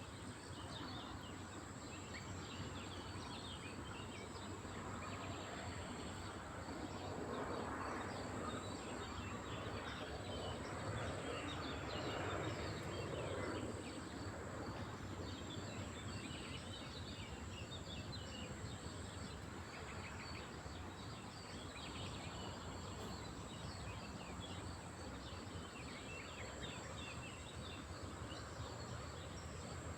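Lakeside ambience: many small birds chirping over a steady low background rumble and a thin, steady high hum. A louder swell of noise passes between about 7 and 14 seconds in.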